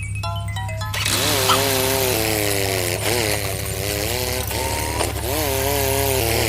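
A small motor running with a buzzing pitch that keeps rising and falling, starting about a second in, over a steady low hum.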